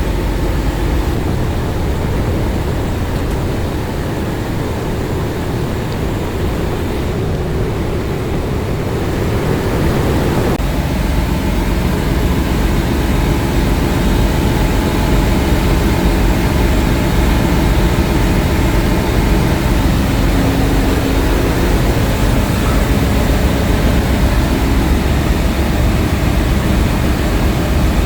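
Ship's engine-room machinery running: a loud, steady drone that grows a little louder about ten seconds in.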